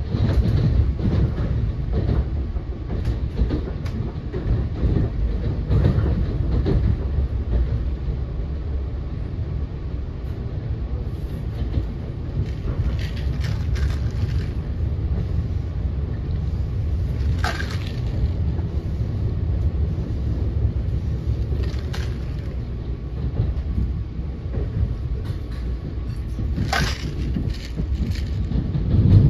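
Steady low rumble of an NJ Transit Multilevel coach rolling along the rails, heard from inside the car, with a few brief sharp clicks as the wheels pass over track joints and switches.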